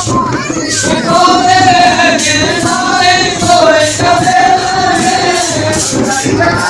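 Male voice singing a Holi folk song (lokgeet) over instrumental accompaniment, in long drawn-out lines with a wavering pitch.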